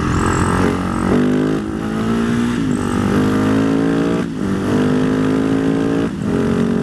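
Husaberg 650 supermoto's single-cylinder four-stroke engine accelerating hard through the gears: the revs climb steadily, then drop at each upshift, several times over, with wind rushing past.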